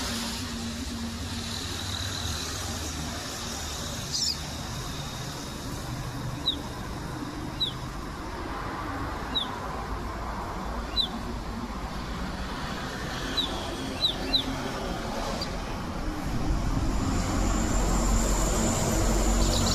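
Double-collared seedeater (coleiro) giving short, sharp downward chip calls, one every second or two, over a steady low hum of street traffic. A steady high whine joins near the end.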